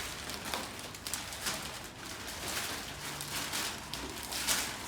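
Sheets of packing paper rustling and crinkling in repeated swells as they are folded and pressed around a coffee machine to wrap it.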